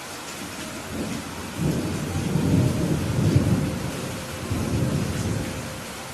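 Steady rain with a roll of thunder: a low rumble builds about a second in, swells twice and fades out near the end.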